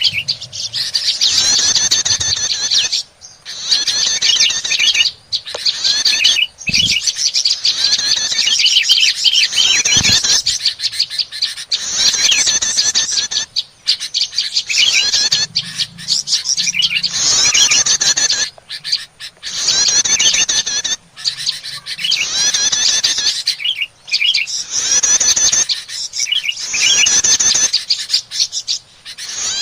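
Prinias (prenjak) chattering noisily in a bird-trapping lure recording: rapid, high calls in repeated bouts of one to three seconds with short breaks between them.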